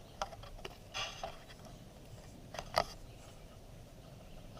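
A few short, sharp handling noises as a hooked smallmouth bass is brought in and landed, three of them, the one near three seconds in the loudest.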